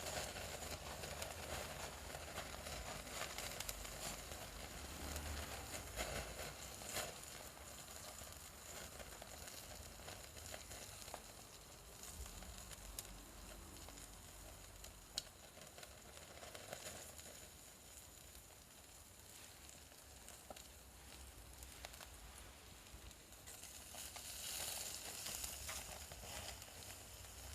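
Small wood fire burning in a Kamado Smart Grill B5 compact grill, hissing faintly with scattered crackles and pops.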